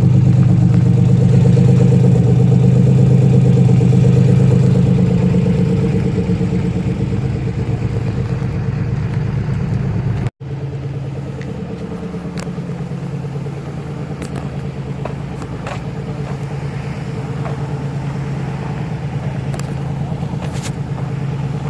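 Nissan Fairlady Z engine idling steadily after a start; about five seconds in the idle eases down and settles. The sound cuts out for an instant about halfway through.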